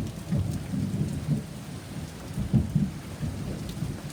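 Heavy rain pouring down during a thunderstorm, with thunder rumbling low and unevenly. A louder surge of rumble comes about two and a half seconds in.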